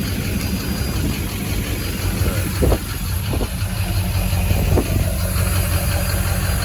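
Pickup truck engine idling with a steady low hum, and a few light clicks from about halfway through.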